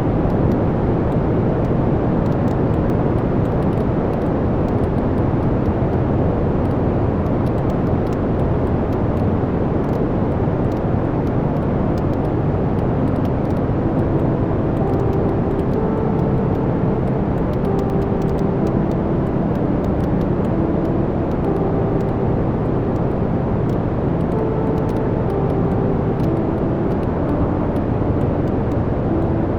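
Wood fire burning in a fireplace: a steady low roar with faint scattered crackles, and from about halfway a few short faint whistling tones.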